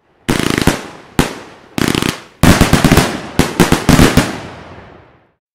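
Fireworks going off: loud bangs and crackling reports in quick clusters, each trailing off in an echoing tail. The last reports fade out near the end.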